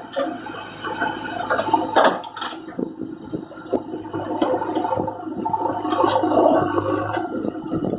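JCB 3DX backhoe loader's diesel engine working under load, with the rushing, clattering noise of mud and soil sliding into a tipper truck's steel body, and a few sharp knocks.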